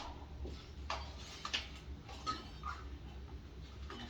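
Faint, irregular small clicks and ticks of hand-handling while the ceiling fan's wiring is connected, over a low steady hum.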